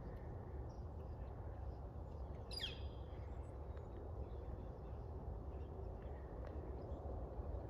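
Outdoor ambience with a steady low rumble, and a single short, high bird call sweeping sharply downward about two and a half seconds in, with a few faint chirps around it.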